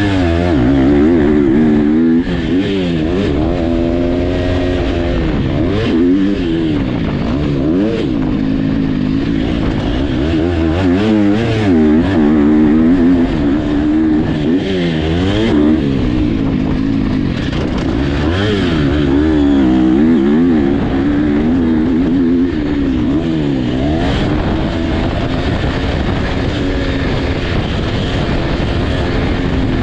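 Several motocross dirt bikes racing, their engines revving up and falling off again and again through gear changes, overlapping one another.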